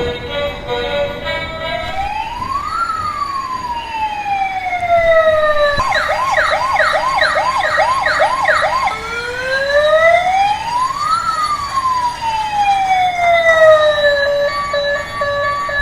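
Emergency-vehicle siren: a slow wail rising and falling, then a fast yelp of quick repeated up-and-down sweeps for about three seconds, then the slow wail again.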